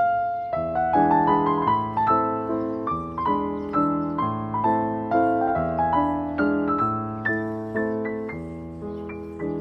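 Background piano music: a gentle melody of single struck notes over sustained bass notes, each note fading after it is played.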